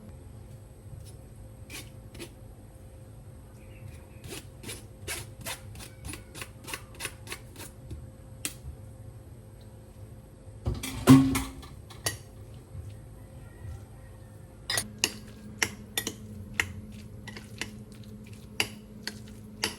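Light clicks and taps of household objects being handled, at times about three a second, with one louder clatter about eleven seconds in, over a faint steady hum.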